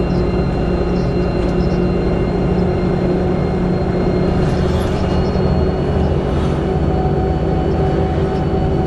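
Volvo B7TL double-decker bus drivetrain heard on board while under way: the diesel running steadily with several high-pitched whines held on top. A further, lower whine comes in about seven seconds in. These are the whistling noises that the uploader puts down to a bad differential.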